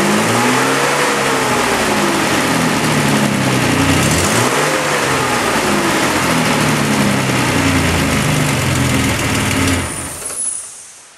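A 1969 MGC's 3-litre inline-six engine, freshly rebuilt with new piston rings, running and revved by hand twice, each rev rising and falling over about two seconds. Near the end it is switched off and runs down.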